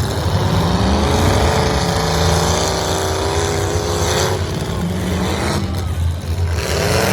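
Several demolition-derby truck engines running hard and revving, their pitch sliding up and down, with a brief harsh noise about four seconds in and again near the end.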